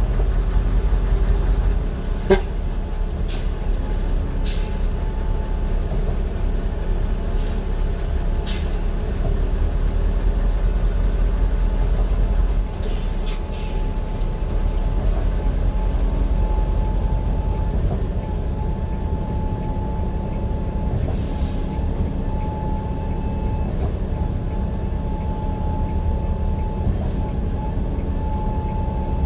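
Steady running noise of a moving vehicle: a continuous low rumble with a thin steady whine and a few sharp clicks and rattles.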